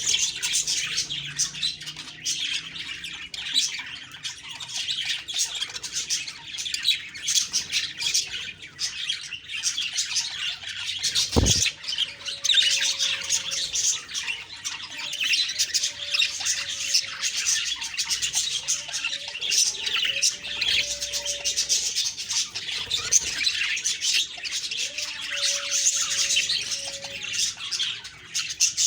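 A flock of budgerigars chattering with constant chirps and squawks, many calls overlapping. A single dull thump is heard about eleven seconds in.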